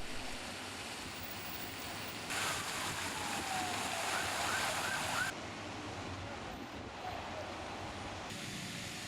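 Fountain water splashing, a steady hiss that jumps in level two or three times, as between shots.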